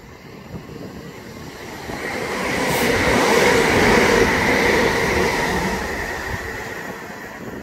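Class 377 Electrostar electric multiple unit running through at speed: the rush of wheels and air builds to a peak about three to four seconds in, then fades as the train runs away.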